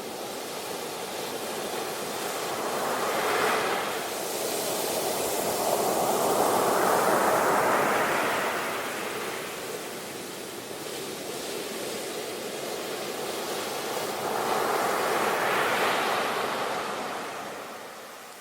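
Sea waves breaking and washing onto the shore: a steady hiss of surf that swells and fades, with a short surge about three seconds in, a longer, louder one in the middle, and another near the end before it dies down.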